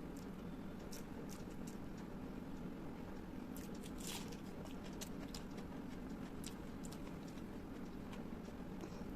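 A person chewing food close to a microphone, with scattered short mouth clicks and smacks and one longer one about four seconds in, over a steady low background hum.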